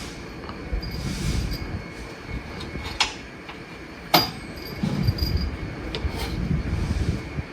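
Metal clanking and scraping: two sharp metallic knocks, about three and four seconds in, over a low rumble.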